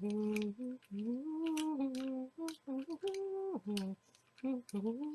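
A person humming a tune: a run of held, sliding notes with short breaks between them, with light clicks here and there.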